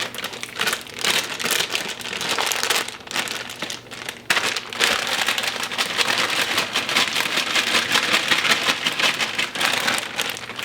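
Plastic bag of carrots crinkling and rustling as the carrots are tipped into a crock pot, a dense crackly noise that thickens about halfway through.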